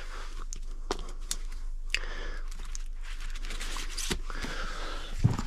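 Magazines being handled and sorted through: rustling and crinkling, with a few light knocks and clicks.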